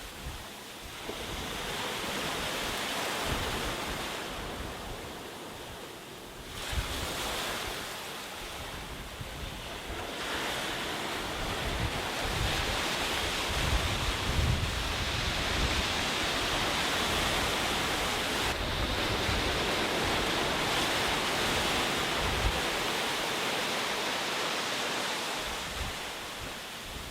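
Sea waves washing onto a beach: a steady rush of surf that swells and ebbs, building up about ten seconds in and easing off near the end, with a low, uneven rumble of wind on the microphone.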